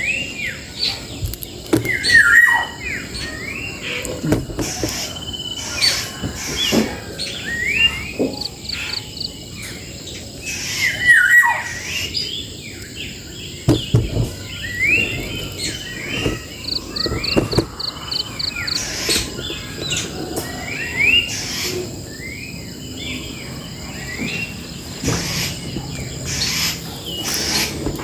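Songbirds chirping and calling close by, with repeated short slurred notes and two quick rapid trills, one about a third of the way in and one past the middle, over scattered sharp clicks.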